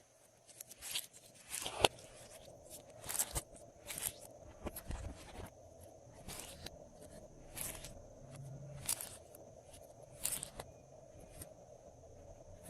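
Glossy slime being squished and stretched by hand: a string of short squishing sounds, roughly one a second, over a faint steady hum.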